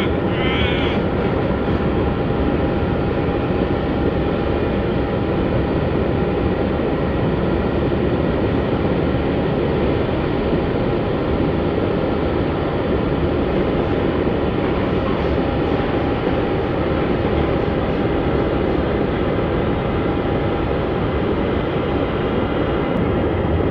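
Jet aircraft engines running steadily: a continuous loud rush with a steady whine over it.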